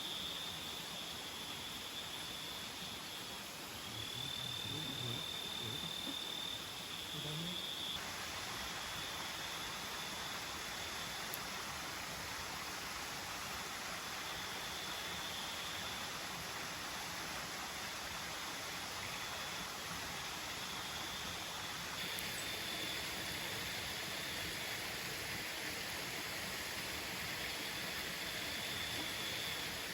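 Nocturnal tropical forest insects trilling steadily at one high pitch, swelling and fading, over the steady rush of a waterfall. Faint low voices are heard in the first few seconds.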